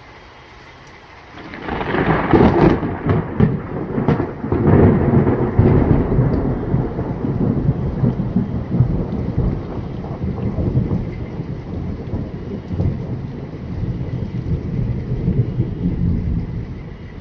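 Thunder from a nearby lightning strike: a sudden crackling clap about a second and a half in, several sharp cracks over the next few seconds, then a long rolling rumble that dies away near the end.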